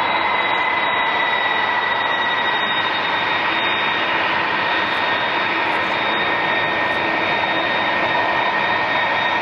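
Airbus A330 jet engines running under power, a steady, loud rush of jet noise with a high whine on top that drifts slightly lower in pitch.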